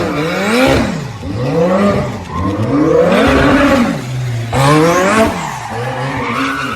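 Turbocharged car engine revving up and down about five or six times, its pitch rising and falling with each blip.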